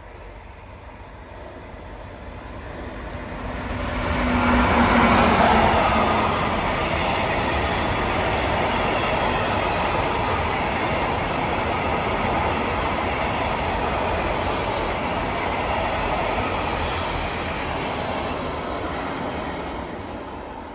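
Freight train of tank wagons hauled by a Siemens Vectron Dual Mode locomotive passing by. It rises as the train approaches, with a brief low hum as the locomotive goes by about four seconds in, then the wagons rumble steadily over the rails and begin to fade near the end.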